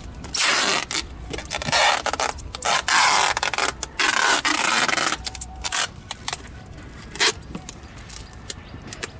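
Handling noise: loud scraping and rustling bursts for about five seconds, then softer rustles and a few sharp clicks.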